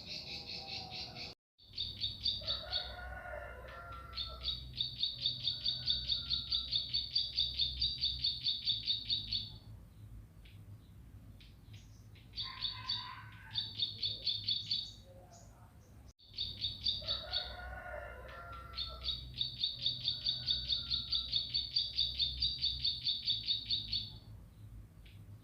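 Ciblek (prinia) singing: long, fast trills of high repeated notes, about five a second, in two bouts with shorter lower chirping phrases between them. The sound cuts out briefly twice, near the start and about midway, and a faint low hum runs beneath.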